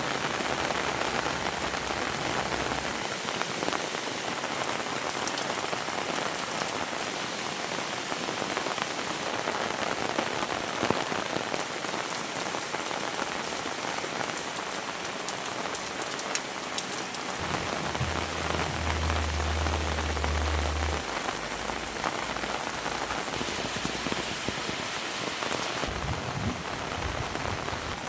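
Heavy rain falling steadily, a dense even hiss of drops on surfaces, with a brief low rumble about two-thirds of the way through.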